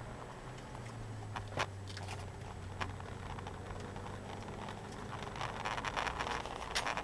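Nissan 200SX engine running with a steady low drone, heard from inside the cabin. Sharp clicks sound about a second and a half in and again near three seconds, and a rising hiss with a cluster of clicks builds over the last couple of seconds.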